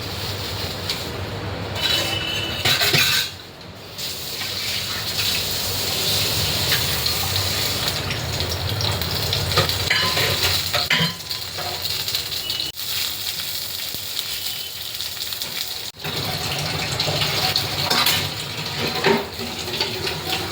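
Food sizzling as it fries in a pan, stirred with a spoon that clinks and scrapes against the pot.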